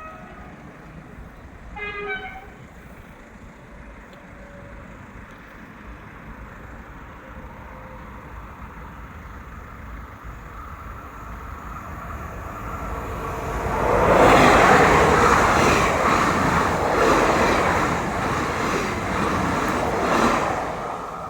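A short train horn toot about two seconds in. Then a train comes up and passes close by, loud for about six seconds before it eases off.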